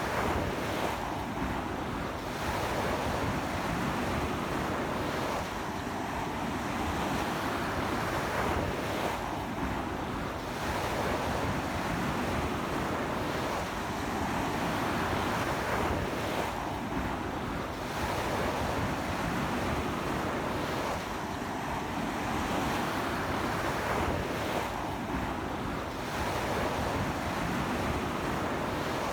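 Ocean waves breaking and washing up a beach in a strong sea wind, a continuous surf noise that swells and eases every few seconds, with wind buffeting the microphone.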